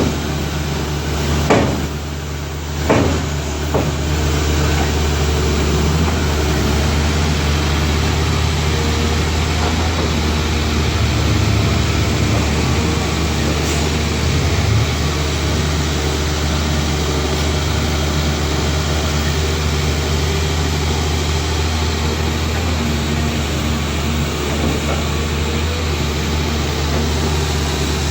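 Heavy diesel engine running steadily at low revs, with two sharp knocks in the first three seconds.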